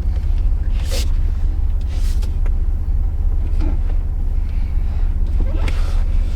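Steady low road-and-engine drone of a 2018 Ford F-150 with the 3.5 L twin-turbo EcoBoost V6, heard inside the cab while driving, with a few short clicks.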